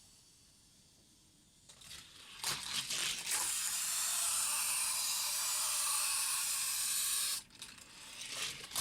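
Die-cast Hot Wheels cars running down orange plastic track. A few clicks and light knocks come first, then a steady whirring hiss of wheels rolling fast along the track for about four seconds, which cuts off suddenly.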